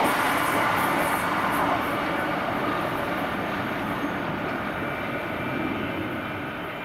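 Passenger train running away along the track after passing through, its wheel clatter dying out after about a second and its noise fading steadily as it draws away.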